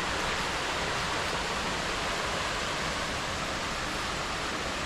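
Waterfall water pouring and splashing, a steady rushing noise.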